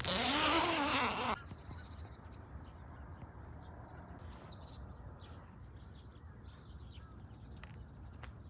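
Birds calling outdoors: a loud, harsh call with a rising-then-falling pitch for about the first second and a half, then scattered short high chirps.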